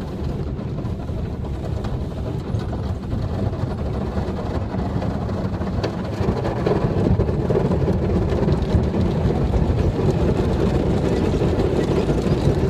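Automatic car wash heard from inside the car: the steady rumble of the wash brushes working over the body, growing louder about halfway through.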